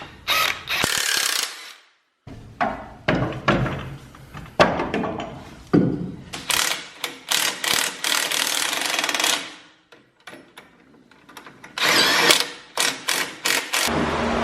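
Mechanic's tools at work: several bursts of a power tool, each lasting one to three seconds, among sharp clicks and knocks of tools on metal parts.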